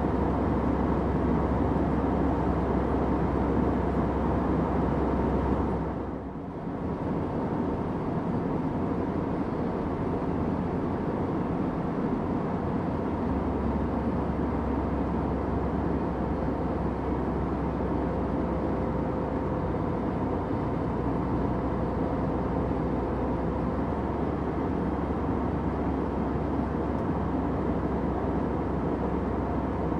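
Steady drone of an airliner's cabin: jet engine and airflow noise with a low hum. About six seconds in the level dips briefly, then the drone carries on a little quieter.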